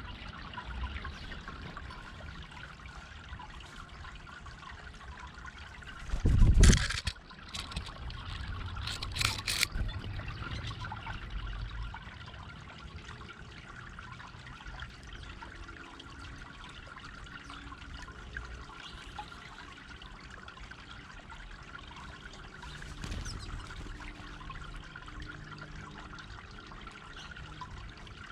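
Water trickling steadily over a garden fountain. A short loud rush of noise breaks in about six seconds in, and two shorter ones follow around nine seconds.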